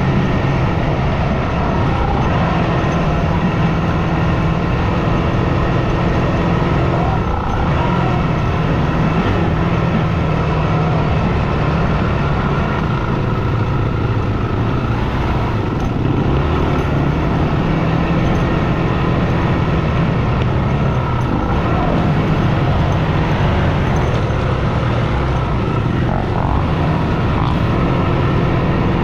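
Yamaha WR250F dirt bike's single-cylinder four-stroke engine running as the bike is ridden, its pitch stepping up and down with throttle and gear changes.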